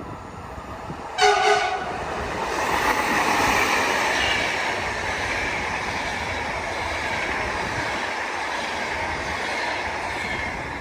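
A train horn sounds one short blast about a second in, then the noise of a passing train, its wheels on the rails, builds and holds steadily.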